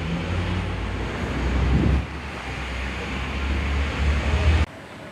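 Wind buffeting the microphone over a low engine rumble and the wash of the sea, as on a moving boat. It cuts off abruptly near the end to a much quieter background.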